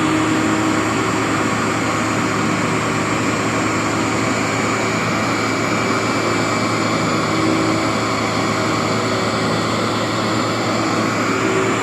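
Workhorse vacuum running over a rubber-backed rug: a steady, loud motor drone with a humming tone that wavers slightly in pitch.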